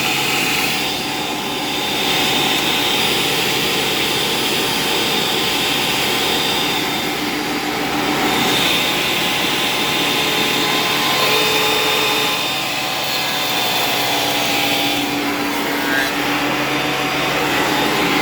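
Shop Fox 13-inch thickness planer running with a steady motor whine while its cutterhead takes a light pass through black walnut; the cutting hiss swells and eases several times as the board feeds through.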